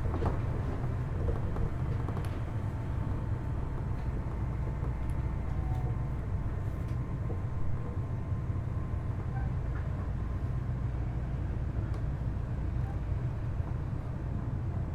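Kitakyushu Monorail Series 1000 car with Hitachi IGBT-VVVF traction equipment running on its rubber tyres and slowing to a stop at a station, a steady low rumble heard from inside the car. A faint steady inverter whine fades out about two-thirds of the way through.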